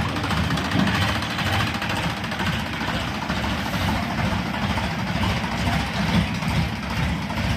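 Tractor engine running steadily with a rapid, even pulse.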